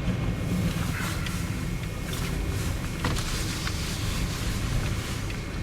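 Steady low road and engine rumble inside a moving small car's cabin, with a few faint ticks.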